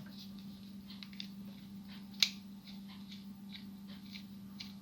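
Light clicks and taps of small plastic toy parts being handled while a spring and ratchet mechanism is worked out of a Transformers figure, with one sharper click about two seconds in. A steady low hum runs underneath.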